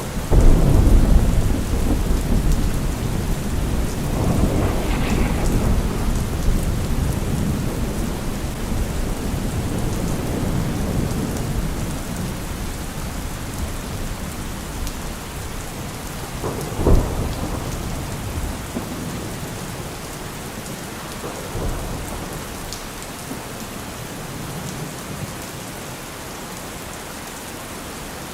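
Thunderstorm: steady heavy rain with rolling thunder, a loud rumble at the start, another about four seconds in, and a sharp clap about seventeen seconds in, the thunder dying away toward the end while the rain keeps on.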